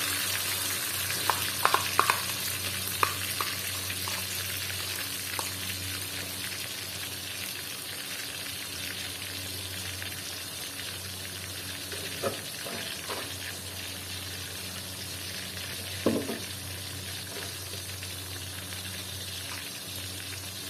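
Blended chili paste sizzling in hot oil in a wok, the sizzle slowly dying down. A few light knocks are heard, the loudest about sixteen seconds in.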